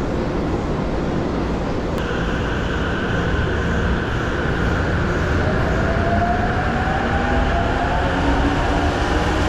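JR Musashino Line electric commuter train pulling out of the platform, over a steady rumble of the cars. There is a single sharp knock about two seconds in. From about halfway, the motors' whine rises steadily in pitch as the train gathers speed.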